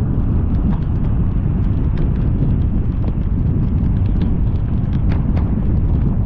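A car driving through heavy rain: a loud, steady low rumble of road and wind noise, with irregular sharp taps of raindrops striking close by.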